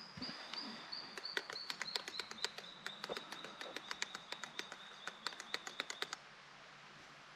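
A bird calling: a quick run of sharp, evenly repeated high notes, several a second, that stops abruptly near the end.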